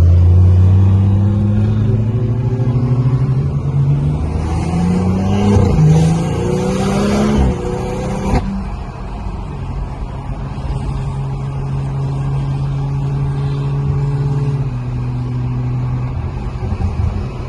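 A car's engine with its exhaust dumping, accelerating hard up a highway on-ramp: the pitch climbs through a couple of gears with a loud rushing hiss under full throttle, cuts off abruptly about eight seconds in, then settles into a steady cruise.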